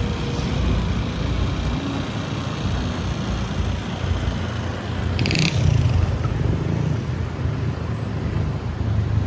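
Motorbike riding along a road: steady engine and road rumble mixed with wind noise. A brief high-pitched squeak sounds about five seconds in.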